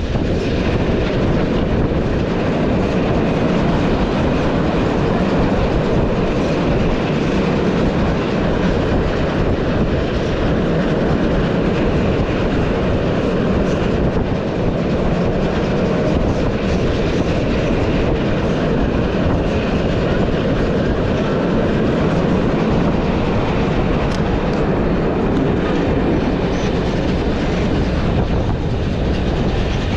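Heritage steam train of Umbauwagen coaches running along the line: a steady rumble of wheels on rails with a clatter over the rail joints.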